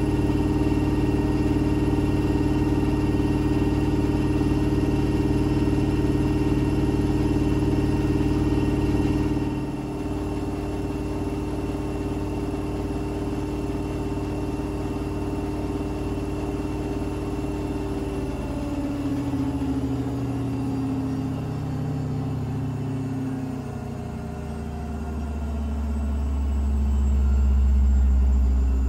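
Blomberg fuzzyDigitronic washing machine coming down from its 1200 rpm spin. A steady, loud motor and drum whine drops in level about ten seconds in, then its tones slide down in pitch as the drum slows, and a deep rumble swells near the end.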